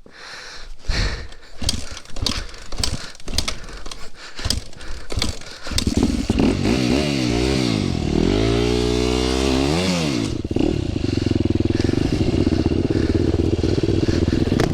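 Clattering, scraping knocks for a few seconds. Then a dirt bike's engine catches about six seconds in, revs up and down several times, and settles into a steady run.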